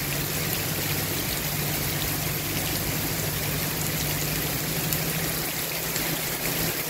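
Heavy tropical-storm rain pouring down steadily, with a steady low hum underneath.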